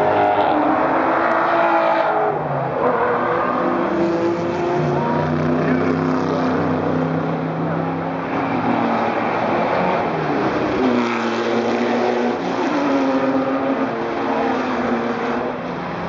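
Several supercar engines accelerating past on a track one after another, revving with rising and falling pitch, the sounds of different cars overlapping.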